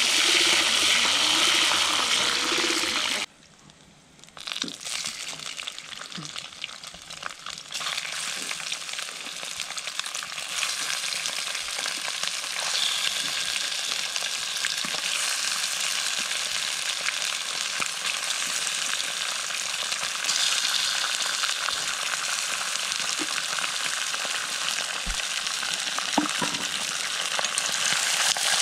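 Food sizzling as it fries in a pan, with occasional clicks of stirring. The hiss drops out about three seconds in, then returns and carries on steadily.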